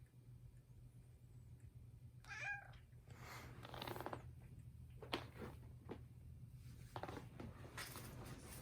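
A domestic cat, a Norwegian Forest–Scottish Fold mix, gives one short meow about two seconds in, followed by several soft noisy sounds.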